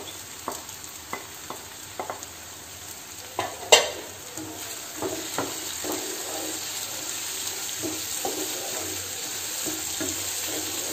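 Chopped coconut pieces going into a pan of frying onion and tomato masala and being stirred with a wooden spatula: a steady sizzle under scattered scrapes and taps of the spatula, with one sharper knock about four seconds in.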